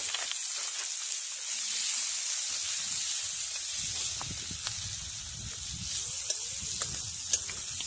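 Chopped onions and garlic sizzling in oil in an iron wok over a wood fire, a steady frying hiss while they are stirred with a metal ladle. Occasional sharp clicks run through it.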